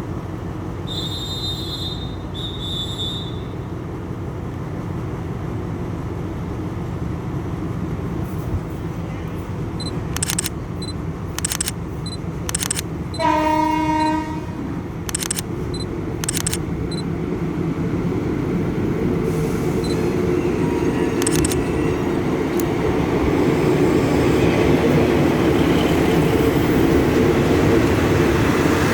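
Diesel train running at a station with a steady low rumble that grows louder toward the end. About 13 seconds in, a train horn sounds once for about a second. Two short high whistle tones come near the start, and sharp clanks come in the middle.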